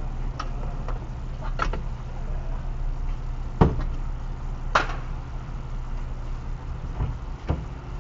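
Car engine idling steadily, with a few scattered short knocks and clicks, the loudest about three and a half seconds in.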